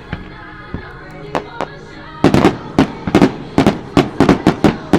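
Fireworks going off: a few scattered pops, then from about two seconds in a rapid run of about a dozen sharp, loud bangs in under three seconds, over the show's music.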